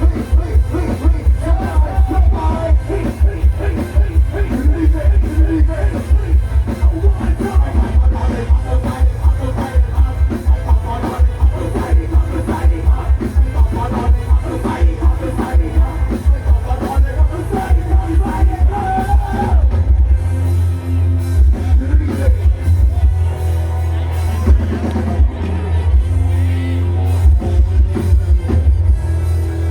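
Loud dance music from a Thai rot hae sound truck's speaker stack, with a heavy thumping bass beat under a melody. About twenty seconds in the pounding beat gives way to a steadier, held bass.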